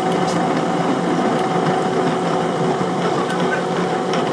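A workshop power machine running steadily at full speed, with an even motor hum and overtones over a rough, noisy grinding or cutting sound.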